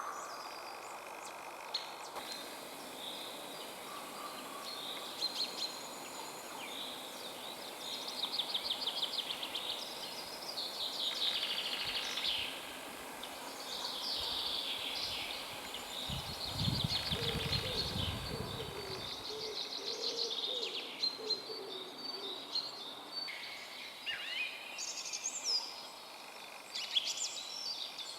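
Several wild birds singing at once in spring woodland, a dense chorus of overlapping trills, chirps and whistled phrases. A low rumble comes in for a few seconds about midway.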